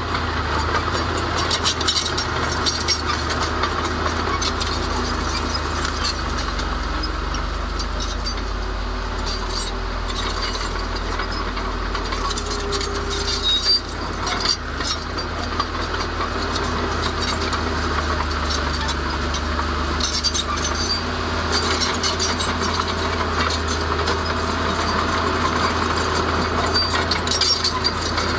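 Heavy diesel earthmoving machinery running steadily with a low engine drone, over constant clinking and scraping.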